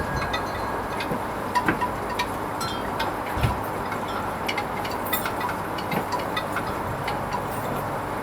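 Hoover Vision HVP16 washing machine running its Silks 30 programme: a steady wash noise with scattered light clicks and one low thump about three and a half seconds in.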